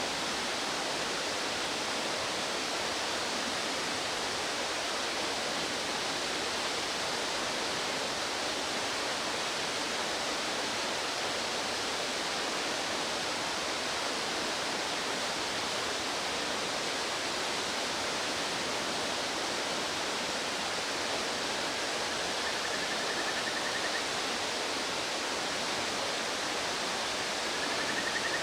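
Rushing mountain stream: a steady, unbroken wash of water noise. A faint buzzy call comes twice near the end.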